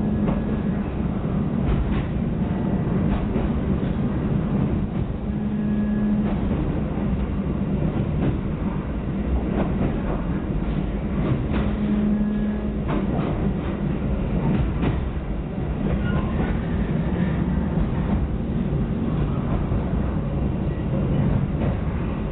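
Passenger train running along the track, heard from inside the carriage: a steady rumble of wheels on rails with scattered faint clicks and a low hum that swells briefly a few times.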